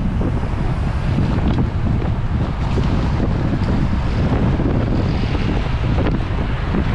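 Steady wind buffeting the microphone of a bike-mounted camera moving at race speed.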